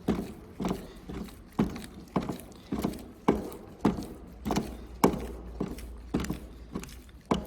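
Regular sharp clicks, a little under two a second, from a hand tool turning a screw into a motorcycle handlebar riser.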